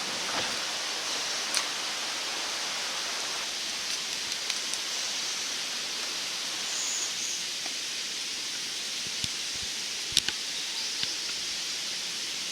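Small wood fire burning in a FireFly backpacking wood stove: a steady hiss with a few sharp crackles of burning twigs.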